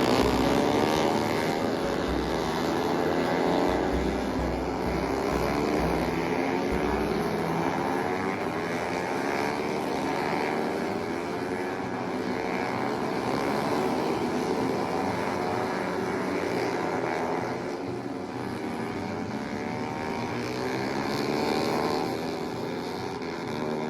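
Several racing motorcycle engines running at high revs on track, their overlapping notes rising and falling in pitch as the bikes pass and shift gear.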